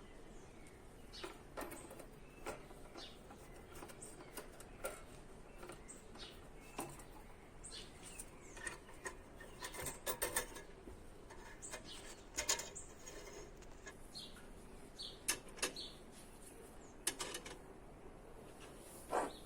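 Faint background with scattered small clicks and ticks, and a few short bird chirps about three-quarters of the way through.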